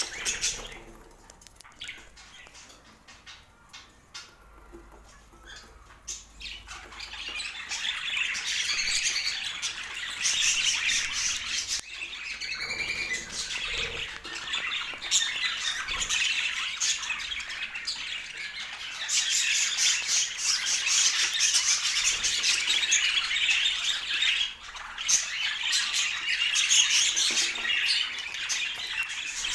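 A flock of budgerigars chattering and squawking, quiet for the first few seconds, then a dense, continuous chatter.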